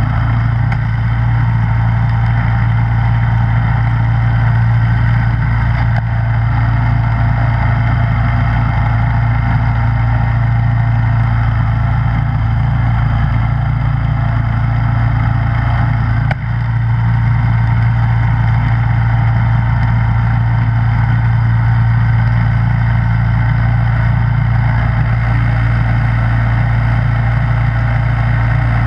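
Gas snowblower engine running steadily, with one brief dip in level about halfway through.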